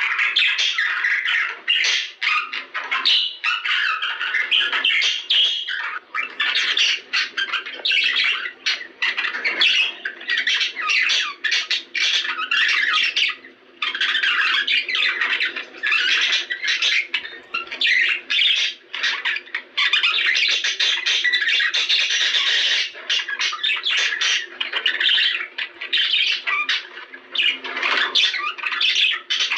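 A flock of budgerigars chattering, warbling and squawking without a break, many calls overlapping: the kind of budgie chatter played to stimulate breeding.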